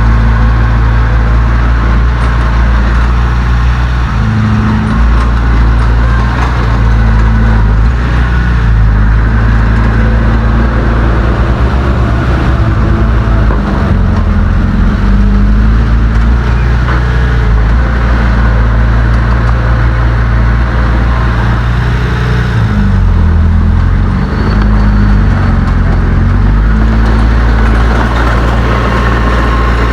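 Heavy diesel engine of earth-moving machinery running loud and continuously, its pitch rising and falling a few times as the engine speed changes.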